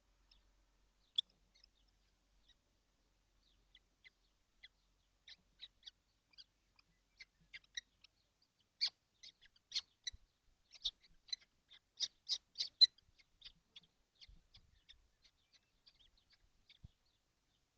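Young kestrels in a nest box, calling in many short, high notes that come quickly one after another. The calls are sparse at first, crowd together and grow loudest in the middle, then thin out again.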